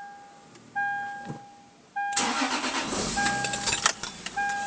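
Lexus IS300's 3.0-litre straight-six cranks and fires about two seconds in, catching quickly and running smoothly on its FIC injectors. A repeating electronic warning tone from the car sounds about once a second before and after the start.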